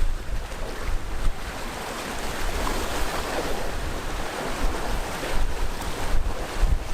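Sea waves washing onto a rocky shore, the surf swelling to a broad wash in the middle, with wind buffeting the microphone in low gusty rumbles.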